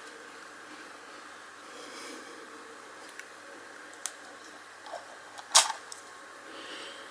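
Die-cast toy car being handled: a few small clicks and one sharp click about five and a half seconds in, over a faint steady room hum.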